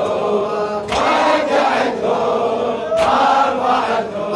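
A group of men chanting a mourning refrain (latmiya) in unison, with a sharp stroke about every two seconds.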